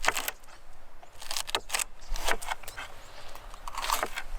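Short clinks, scrapes and rustles of food and utensils being handled during vegetable preparation, about half a dozen separate sounds, the loudest right at the start and near the end.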